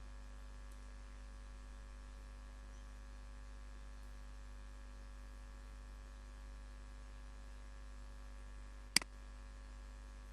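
Steady electrical mains hum, with a single sharp click about nine seconds in.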